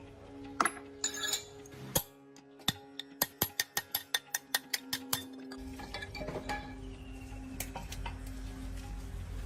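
Metal clinking: a few sharp clicks, then a quick run of about fifteen light metallic clicks at roughly five a second, over background music. A low steady rumble comes in after the clicks stop.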